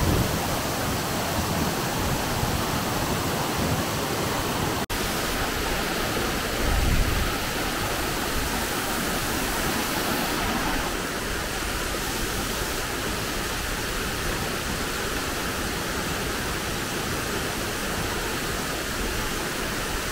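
Waterfall pouring: a steady, even rush of falling water. It drops out for an instant about five seconds in, and the rush changes in tone a little before halfway.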